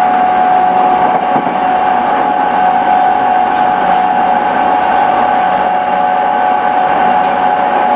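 E217 series electric commuter train's running sound: a steady whine holding one pitch over a constant rumble.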